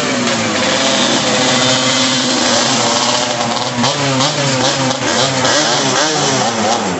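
Two-stroke motorcycle engines revving, more than one at once, their pitch repeatedly rising and falling.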